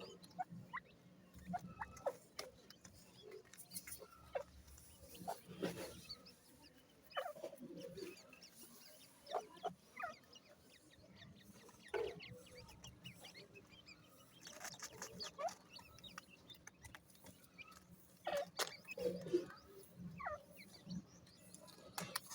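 Young teetar (partridge) chicks peeping in short, scattered calls.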